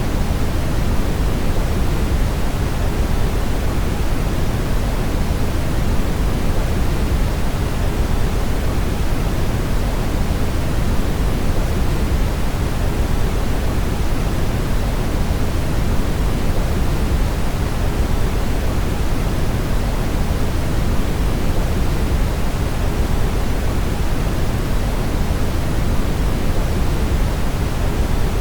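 Brown noise: a steady, unbroken rushing hiss, heaviest in the low end and falling away toward the treble, with no changes.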